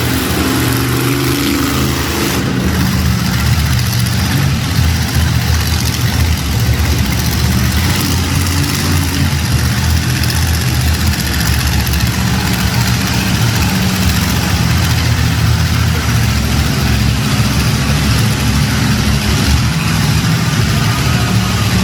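Monster truck engine running loud and low, mostly at a steady idle.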